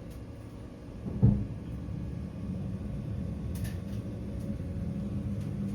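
A vehicle's engine gives a steady low rumble, with a single thump about a second in.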